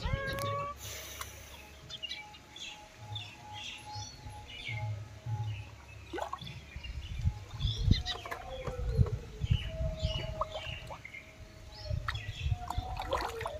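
Small birds chirping repeatedly in short calls, over an intermittent low rumble.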